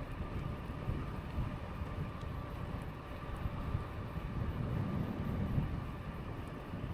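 Riding an e-bike with wind buffeting the microphone and tyres rumbling over the path. A faint, steady high whine runs underneath.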